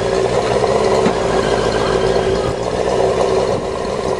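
Dune buggy's Yamaha 650 motorcycle engine running steadily at an even speed, through a custom TIG-welded stainless steel exhaust.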